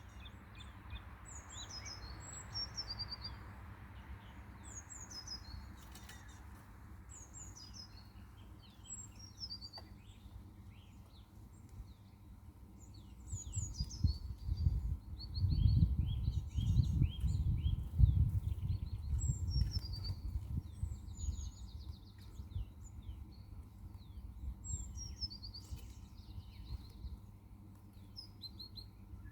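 Small birds chirping and singing, with many short high calls throughout. A low rumble swells for several seconds in the middle and is the loudest part.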